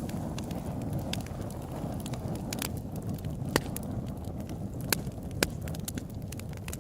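Open-air wood campfire burning with a steady low rush of flame, and sharp irregular pops and crackles from the burning wood. The strongest pops come at about three and a half, five and five and a half seconds in.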